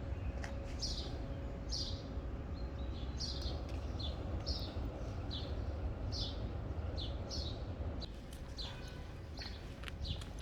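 A small bird chirping over and over, short high falling notes about once or twice a second, over a steady low rumble.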